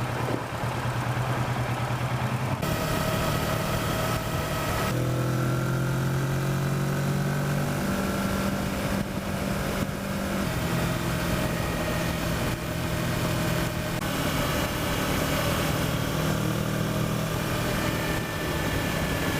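Kawasaki Versys motorcycle engine running under way, its pitch stepping up and down a few times as speed changes, over a steady rush of noise.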